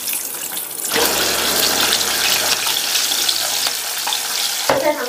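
Whole shallots and garlic cloves sizzling in hot oil in a pan: a steady frying hiss that grows louder about a second in.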